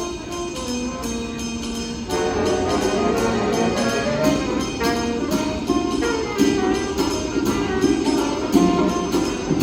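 Scholastic winds ensemble playing: a melodic line over a steady beat, with the full band coming in louder about two seconds in.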